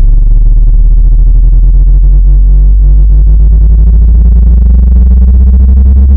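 Loud, low-pitched synthesized tone with a fast, buzzy flutter: a speaker-cleaning sound played to vibrate water and dust out of a phone speaker.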